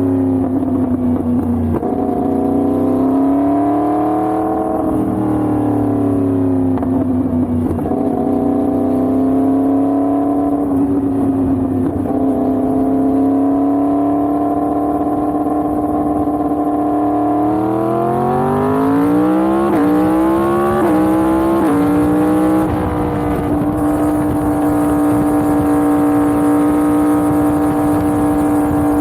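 Yamaha MT-10's crossplane inline-four engine under way, its note rising and easing with the throttle. A little past halfway it accelerates hard through about three quick upshifts, then settles to a steady cruise.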